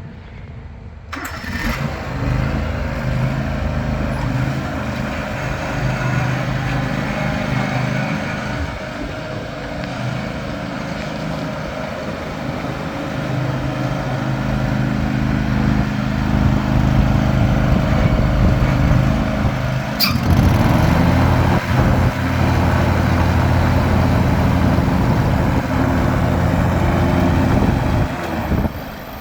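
1993 John Deere LX178 lawn tractor engine starting about a second in and running steadily, louder from about halfway through. A single sharp click about twenty seconds in.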